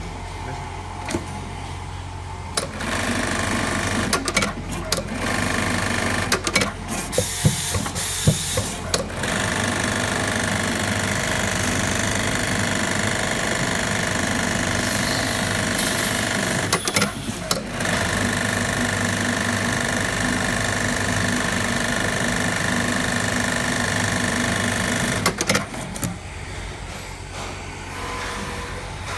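Automatic bird-eye sewing machine running at speed, a steady mechanical whir with rapid clattering strokes in its first stretch. It pauses briefly about two-thirds of the way through, then runs on and stops near the end.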